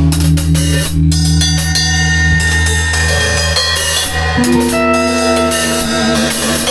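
Live band improvising: a drum kit playing kick, snare and cymbals over held low notes and sustained higher melodic notes. The notes change to a new chord about four and a half seconds in.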